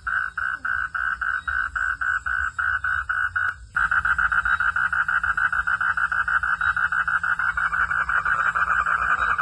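Frogs calling in a rapid pulsed trill, several pulses a second, with a brief break just after three and a half seconds in, after which the pulses come faster.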